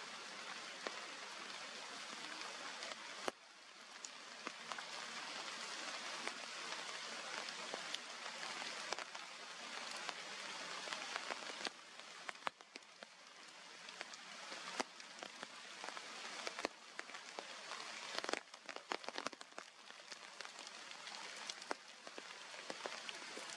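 A steady hiss with many scattered sharp ticks and crackles; the level drops abruptly about three seconds in and again near the middle.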